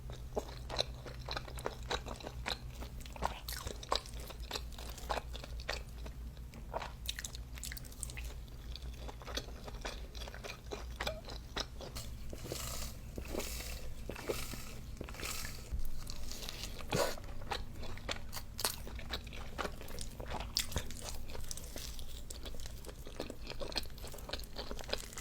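A person chewing and biting food up close, with many irregular crunchy clicks and smacks. A low steady hum runs underneath.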